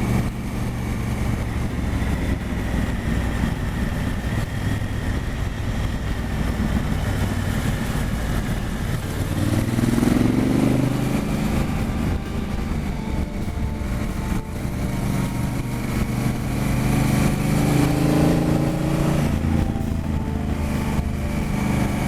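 Motorcycle engine running under way, mixed with wind noise. The engine note climbs as the bike accelerates, about ten seconds in and again later on.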